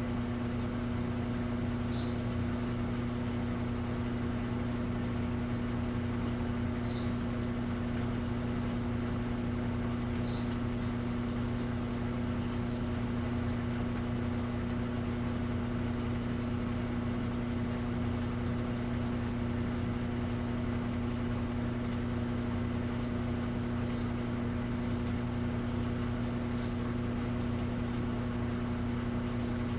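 Steady machine hum from a running Electrolux Essential Care 11 kg washing machine, with a dozen or so faint, short, high chirps scattered through it.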